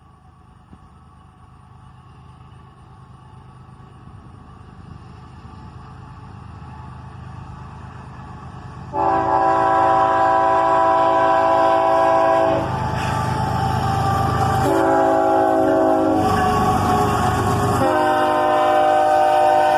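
An approaching GE ES44AH diesel locomotive's engine rumble grows steadily louder. About nine seconds in, its multi-chime air horn sounds a long blast, then a shorter one, and after a brief break another long blast starts near the end.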